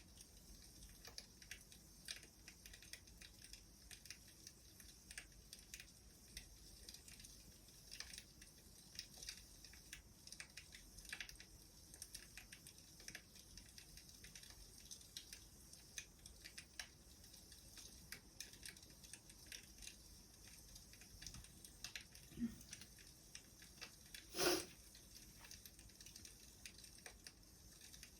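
Faint wood fire crackling: scattered small snaps and pops over a soft hiss, with one louder pop near the end.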